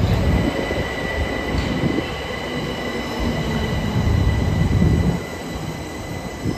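Class 377 Electrostar electric multiple-unit train running past along the platform: a rumble of wheels on rail under steady high-pitched whine tones. The rumble drops away about five seconds in.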